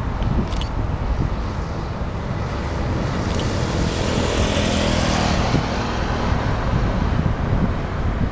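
Jet airliner on landing approach passing by, its engine rush swelling about halfway through and then easing off, over a low rumble of wind buffeting the microphone.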